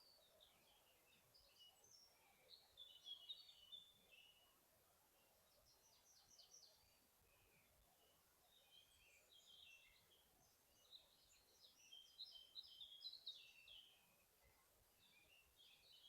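Faint forest songbirds singing in short twittering phrases of quick high chirps, several bursts a few seconds apart, over a soft steady background hiss.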